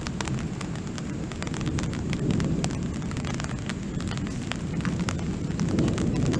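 Thunderstorm: a low rolling rumble that swells twice, with scattered sharp raindrop ticks over it.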